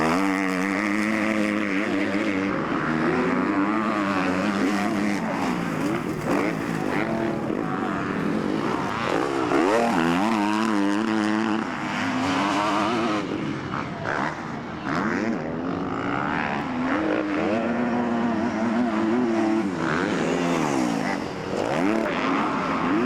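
Motocross bike engines racing, revving up and down as the bikes accelerate and shift, with several rising-then-falling sweeps as bikes pass close by.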